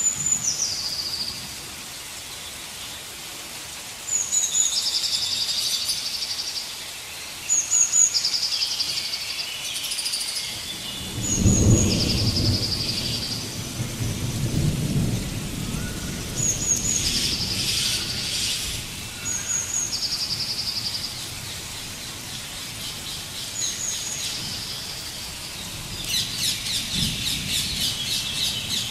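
A forest bird repeats one short song phrase every few seconds: a high note, then a lower buzzy trill. About eleven seconds in, a low rumble swells and fades over several seconds.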